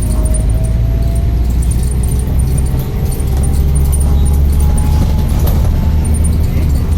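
Motor vehicle engine running with a deep, steady rumble and a faint whine that rises slowly, with light rattling over it.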